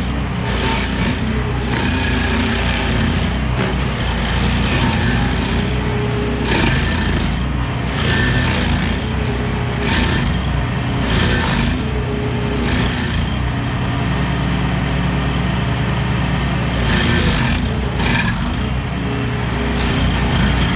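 Small gasoline engine of outdoor power equipment running steadily at working speed, with a harsher noise that flares up irregularly every second or two as the machine works.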